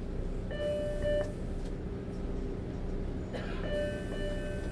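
Subway train rumbling steadily, with two short stretches of pitched tones over it, about half a second in and again past three seconds.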